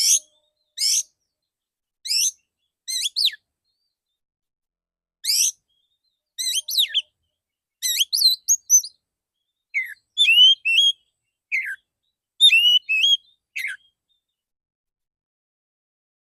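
Male oriental magpie-robin (kacer) singing short bursts of sharp whistled notes, a second or two apart, with the phrases coming thicker from about six seconds in.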